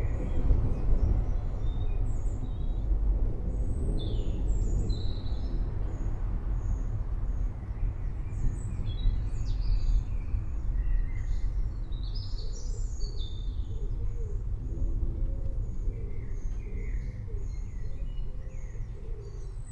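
Low rumble of distant rolling thunder, slowly fading, with birds chirping in short calls throughout.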